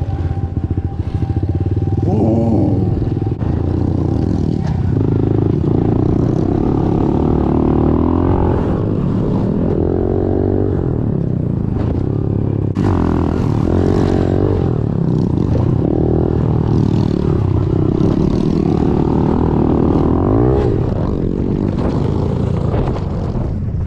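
Small four-stroke pit bike engine ridden hard on a dirt track, revving up and dropping back again and again as it goes through the gears.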